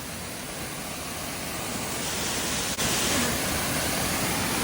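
Steady rush of falling water from a mountain waterfall, growing louder, with an abrupt break about three seconds in.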